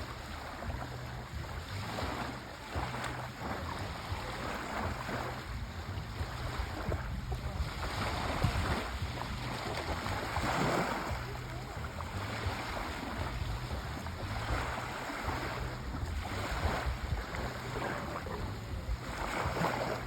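Sea waves washing in and drawing back in repeated surges, the biggest about ten seconds in, over a steady low rumble.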